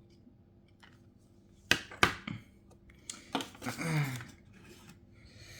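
Small metal repair tools being handled: a few sharp clicks about two seconds in, then a short run of clattering a second later.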